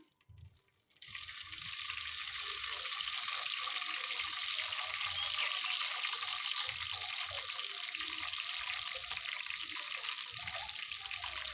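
Onions tipped into hot cooking oil, sizzling steadily. The sizzle starts suddenly about a second in.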